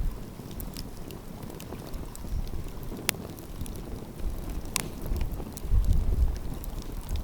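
Wood fire crackling, with scattered sharp pops, two of them standing out about 3 and 5 seconds in. Low gusts of wind rumble on the microphone, loudest around 6 seconds in.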